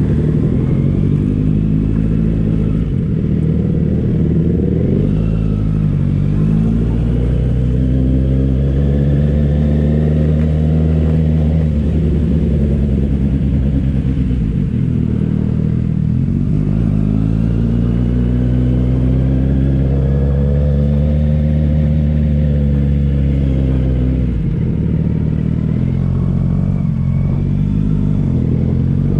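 Superbike engine under way on a ride, its pitch climbing and falling in long sweeps as the rider speeds up and eases off, dropping back about three times.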